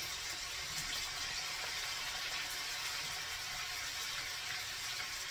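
Sliced mushrooms frying in a skillet, with a steady, even sizzle.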